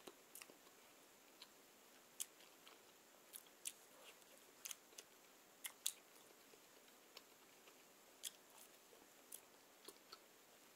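Close-miked chewing of soft bread: faint, moist mouth clicks and smacks, about fifteen scattered irregularly.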